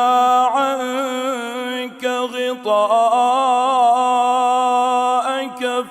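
A man's voice chanting Quranic recitation in melodic tajweed style, drawing out long, ornamented held notes. A short break comes about two seconds in, then a long wavering note lasting nearly three seconds.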